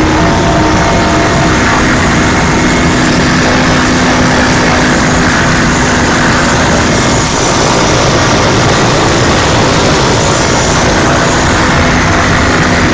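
Helicopter in flight: loud, unbroken engine and rotor noise with a steady hum that holds one pitch.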